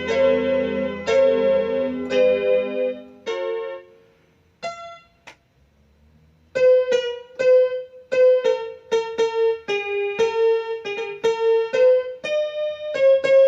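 Yamaha PSR-300 portable electronic keyboard played with a piano-like voice to check its sound after repair. Chords over a bass line, then a few single notes and a short pause, then a quick run of melody notes.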